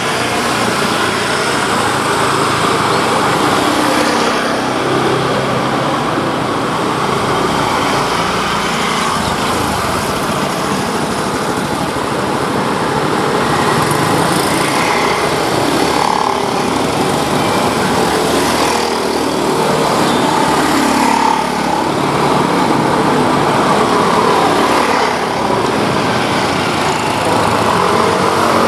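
Continuous road traffic: small engines of passing motorcycles and cars running steadily.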